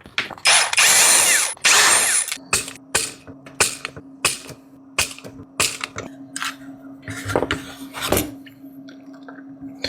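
Desoldering power components from a charger circuit board. Hissing air for about two seconds near the start, then a steady low hum with a string of sharp clicks and taps from the tools.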